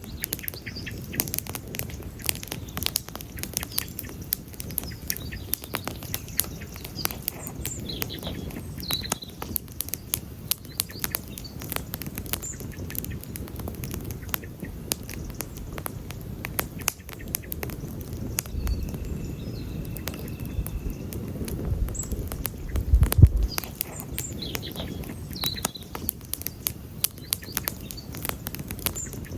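Wood campfire crackling, with frequent sharp pops and snaps over a low rumble of flames. A few faint bird chirps come in, and a low thump about 23 seconds in is the loudest moment.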